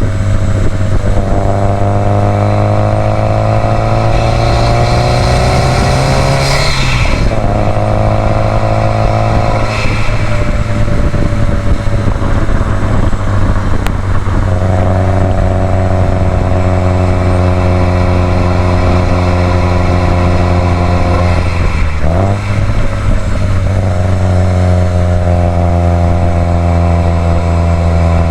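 2018 Subaru WRX STI's turbocharged flat-four engine pulling while driving, its note climbing slowly, with two brief dips about seven and twenty-two seconds in where it drops and picks up again.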